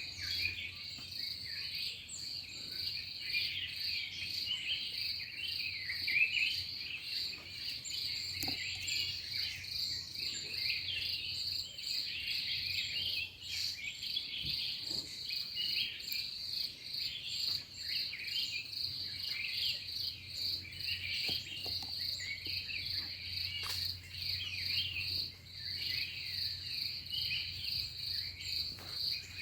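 A steady, high-pitched insect trill runs throughout, with many birds chirping and calling over it, as at a flock feeding in a fruiting tree.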